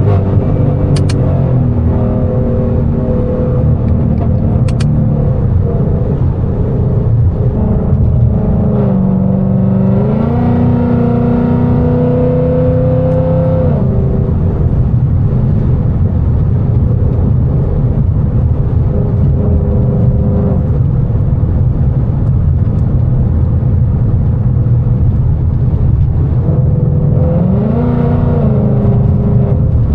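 A 2019 Mustang GT's 5.0 L V8 with catless headers and straight-piped exhaust, running on the road at mostly steady revs with a loud exhaust drone. Its pitch rises about ten seconds in, holds, and falls back a few seconds later, with another short rise and fall near the end. Two sharp clicks come in the first few seconds.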